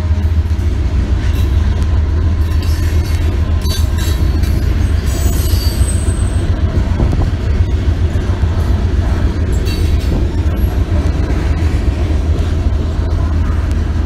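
Freight cars of a manifest train rolling past at a grade crossing: a steady low rumble with irregular wheel clacks on the rails, and a brief high-pitched wheel squeal about five seconds in.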